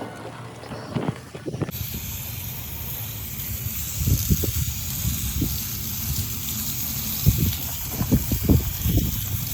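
Water spraying from a hose in a steady hiss, rinsing out the mini-split's coil; it starts suddenly about two seconds in, with irregular low thumps underneath.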